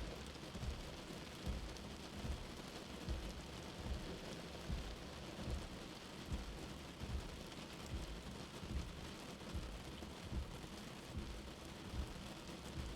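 Steady rain hiss with a slow heartbeat thumping low underneath, about one beat every 0.8 seconds.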